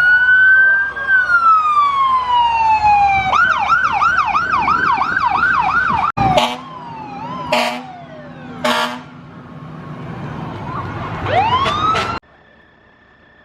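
Emergency-vehicle siren wailing in slow rising and falling sweeps, then switching to a fast yelp, followed by three short loud blasts and the wail rising again before it cuts off suddenly near the end.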